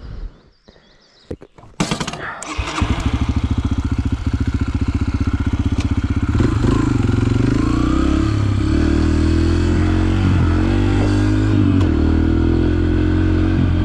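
Dirt bike engine starting about two seconds in, then running steadily with small changes in speed.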